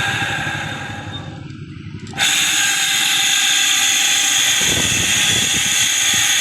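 Electric motor running with a steady high whine. It fades over the first two seconds, then comes back in abruptly at full level and runs on steadily.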